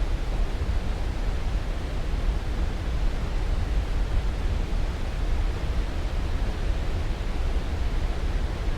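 Steady white-noise hiss, even and unchanging, heavy in the low end and dull at the top, like a deep rushing sound.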